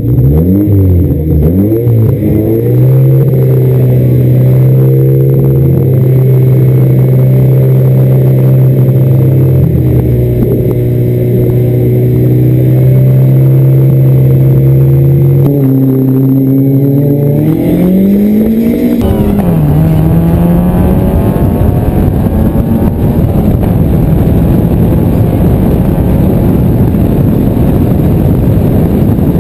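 Chevrolet Corsa's four-cylinder DOHC engine on individual throttle bodies held at steady high revs at the drag-race start line. About eighteen seconds in the revs climb and it launches at full throttle, and the engine note turns into a loud, rough rushing noise.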